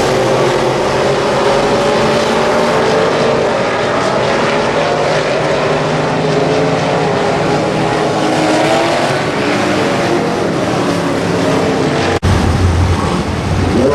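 Several Wissota Midwest Modified race cars' V8 engines running at racing speed together, their pitches rising and falling through the laps. The sound breaks off abruptly about twelve seconds in and comes back heavier in the low end.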